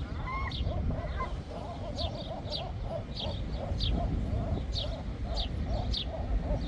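Gulls calling, a fast series of short, repeated honking calls about two to three a second, with higher short chirps mixed in over a steady low rumble.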